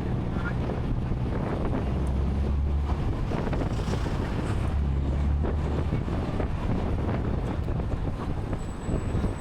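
Car engines and road noise at driving speed, with wind buffeting the microphone; a low engine drone swells twice, about two and about five seconds in.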